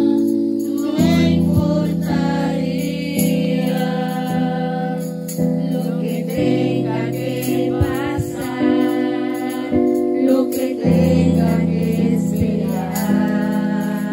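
A congregation singing a Christian praise song together, with sustained instrumental chords underneath that change every second or so.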